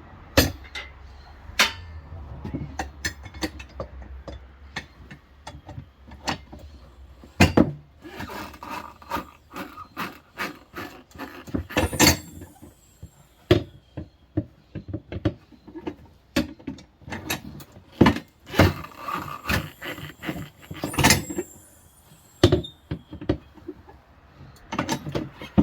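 Manual tire changer's bead breaker being worked by hand against a steel wheel: irregular metal clanks and knocks, a few loud strikes that ring, as the tire bead is forced off the rim.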